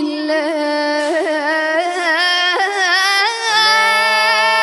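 A young boy reciter's voice singing a Shia elegy (latmiya) in Iraqi style, with quavering, ornamented runs on a vowel. About three and a half seconds in it settles on a long held note, and a second, lower voice comes in underneath.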